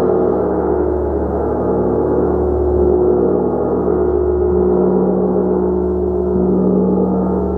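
A gong being played continuously: a loud, dense wash of many overlapping ringing tones that swells and eases slightly, with no separate strikes standing out.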